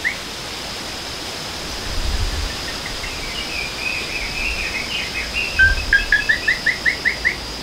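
Songbirds calling in a garden: softer chirps in the middle, then a fast run of short rising whistled notes, about five a second, near the end. A steady high-pitched whine runs underneath, and a low rumble rises twice.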